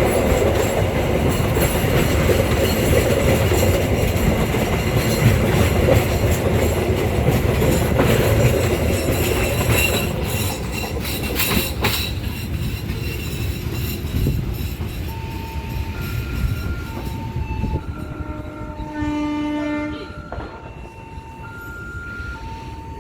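Passenger train running past, its wheels rumbling and clicking over rail joints, fading away about halfway through. Then a two-note high-low tone repeats, with a short horn-like blast about nineteen seconds in.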